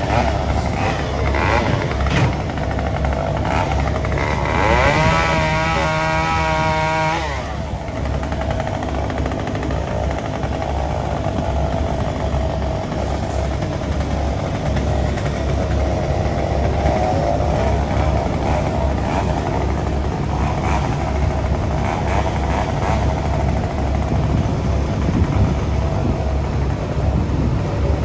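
Engine running steadily. About four seconds in, a higher engine-like note rises in pitch, holds for a couple of seconds, then drops away.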